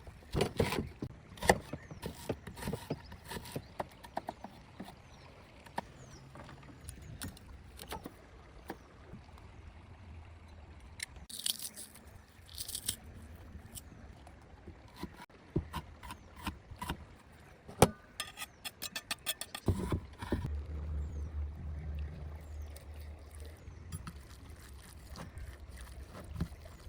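Food-preparation handling sounds: scattered knocks, clicks and scrapes of utensils and food, with a quick run of clicks near the two-thirds mark, over a low steady rumble.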